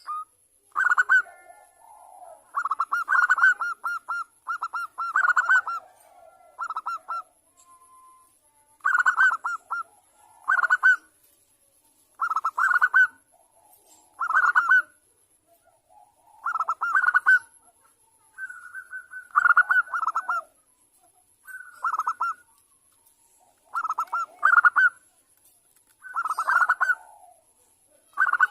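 Zebra dove (perkutut) cooing: short, rapidly trilled coos repeated about every one to two seconds.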